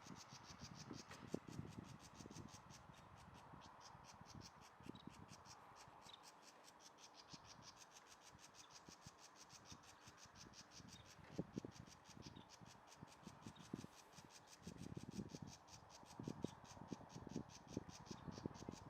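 Faint irregular scratching and rubbing, in clusters, strongest about two-thirds of the way in and near the end, over a faint, fast, even high ticking.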